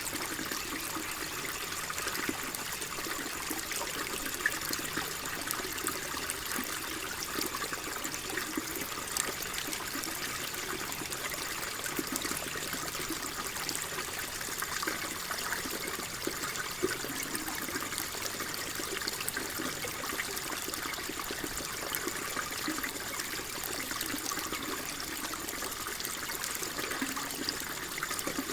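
Water flowing steadily with a continuous trickle and small splashes, like a shallow stream over stones.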